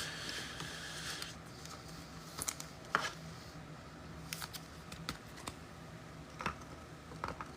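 Sparse, light clicks and taps, about a dozen scattered over several seconds, after a soft rustle in the first second or so: small hard objects being handled on a desk.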